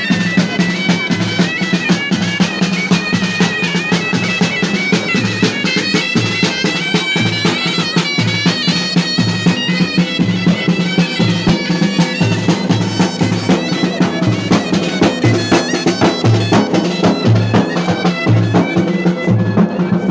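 Traditional folk music: a shrill reed wind instrument plays a wavering melody over a steady held note, with a drum beating about twice a second.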